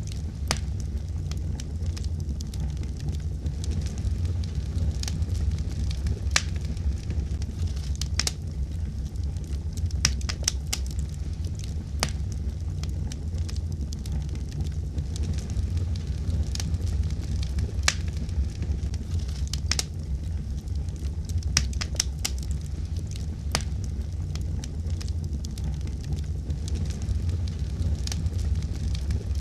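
Fire burning in a fireplace: a steady low rumble of flames with sharp, irregular crackles and pops scattered throughout.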